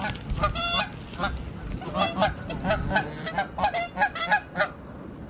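Geese honking over and over, many short calls overlapping as a flock gathers, busiest in the middle and dying down near the end.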